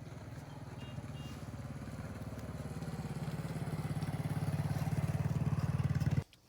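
Motorbike engine running with a rapid low pulse, growing louder and then cutting off suddenly about six seconds in.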